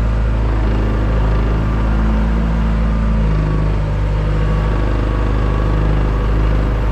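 Forklift engine running steadily under load while the forks are worked, its note shifting lower about three seconds in.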